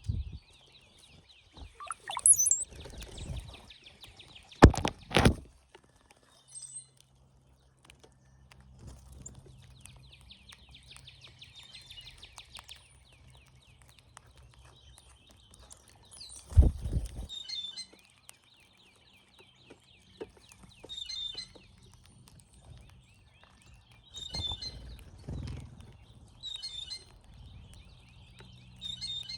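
Brown-headed cowbirds calling: thin high whistles and short squeaky notes over a buzzy trill, with loud thumps about five seconds in and again about sixteen seconds in.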